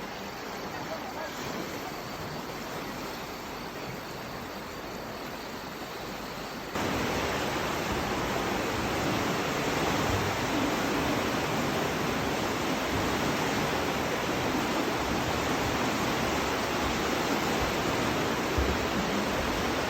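Steady rush of the Aare river's water pouring through the gorge, a constant noisy roar that becomes abruptly louder about seven seconds in.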